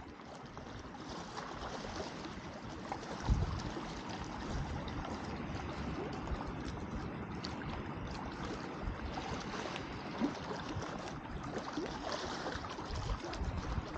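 Wood campfire crackling with frequent small pops, over a steady rush of lake water lapping at the shore. A low thump about three seconds in.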